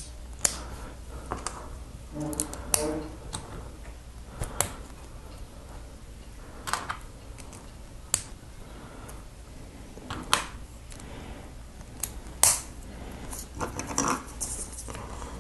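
Small plastic LEGO bricks clicking and tapping as pieces are picked up and snapped together, in sharp irregular clicks every second or so.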